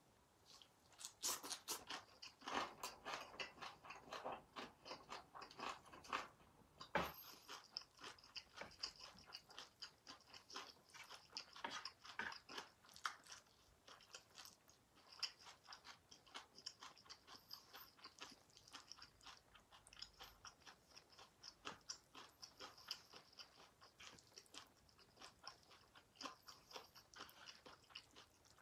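Close-miked chewing of young radish (yeolmu) kimchi and yakisoba noodles: a steady run of wet smacks, crunches and mouth clicks.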